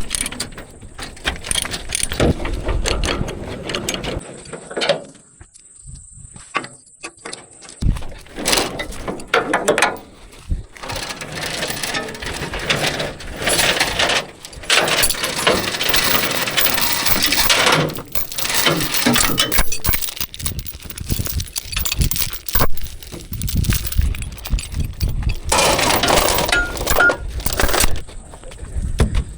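Irregular metal clanking, scraping and ratchet-like clicking from hand-worked metal hardware, with clusters of sharp knocks.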